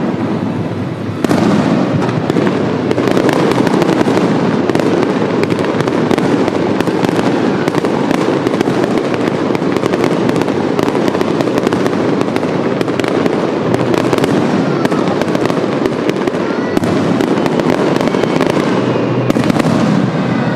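Fireworks display in a dense barrage: many shell bursts and crackles overlapping without a break. There is a short lull about a second in, then it runs on loud until the end.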